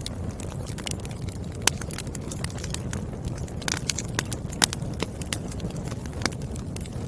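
Firewood burning in a fire, crackling with sharp irregular pops over a steady low rumble of flame. Two louder pops stand out, one a little under two seconds in and one about halfway through.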